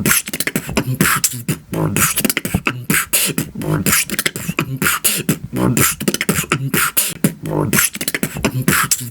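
Beatboxing: a steady rhythmic pattern of mouth-made drum sounds, sharp hissing snare and hi-hat strokes over short pitched bass hums, with no break.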